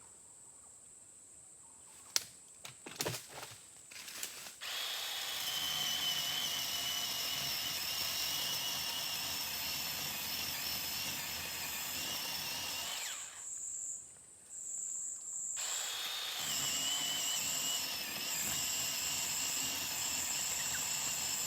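Chainsaw cutting through a tree trunk to finish a felling cut: a few light knocks, then the saw runs steadily from about four seconds in, stops for a couple of seconds past the middle, and starts cutting again.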